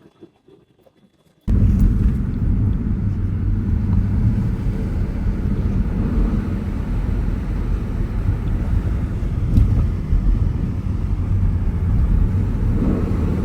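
Steady low rumble of a car on the road, heard from inside the moving car, starting abruptly about a second and a half in after a quiet stretch.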